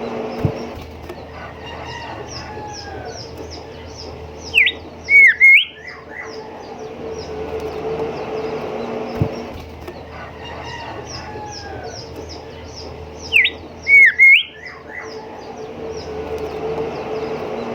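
Golden whistler singing: a loud phrase of whistled notes gliding up and down, heard twice about nine seconds apart. Under it runs a string of quick, high ticking notes and a steady low hum.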